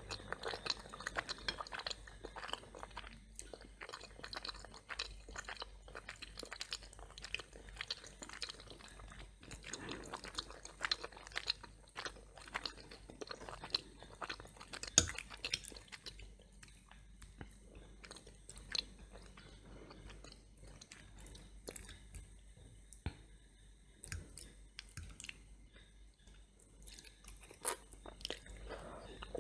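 A person chewing and crunching crisp toast: dense crackly bites for the first half, then slower, sparser chewing, with one sharper crunch about halfway through.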